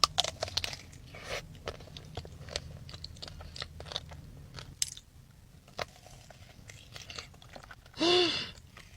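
Close-up eating sounds: biting into and chewing a mango-shaped dessert with fresh mango inside, many small crunches and wet clicks over a low rumble. About eight seconds in comes a brief hum from the eater.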